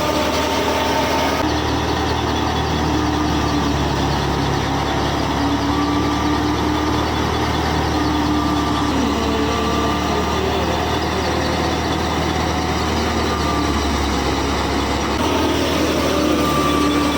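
A small motor running steadily, with whining tones that waver slightly in pitch. The sound changes abruptly about a second and a half in and again near the end.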